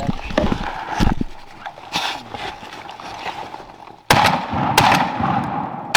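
Shotgun shots at waterfowl, two sharp blasts less than a second apart about four seconds in, each trailing off in a ringing echo.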